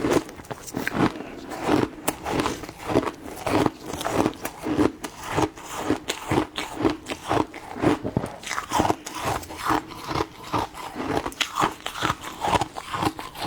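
Ice cubes being bitten and chewed, a run of sharp, crisp crunches about two to three a second.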